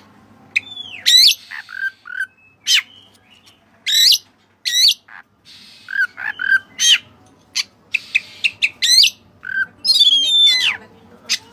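Oriental magpie-robin (kacer) singing a loud, varied song: high whistled phrases that sweep up and down, broken by short, lower clipped notes.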